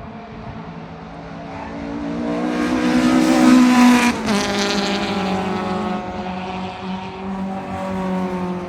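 A racing car passing at speed: its engine grows louder as it approaches and drops in pitch as it goes by about four seconds in, with engine noise carrying on after the pass.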